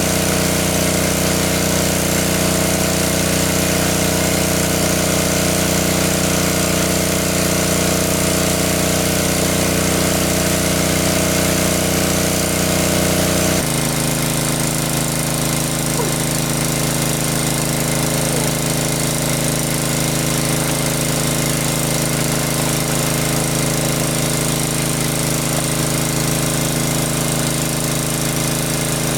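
A small engine running steadily at an even speed; its tone changes abruptly about halfway through.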